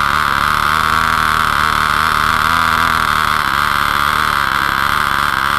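Cox .049 single-cylinder two-stroke glow engine with a muffler, running flat out with a steady high-pitched whine.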